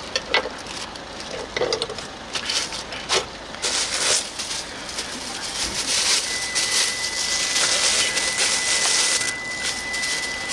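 A few sharp clicks and knocks, then from about three and a half seconds in a steady sizzle of sundae and offal stir-frying in a hot pan. A thin, steady high tone joins about six seconds in.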